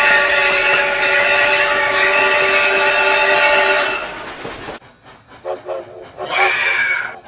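Steam locomotive whistle, CN 3254's old multi-tone chime, blowing one long chord that holds for about four seconds and then dies away. After it come a quick regular ticking and a short shrill screech about six seconds in.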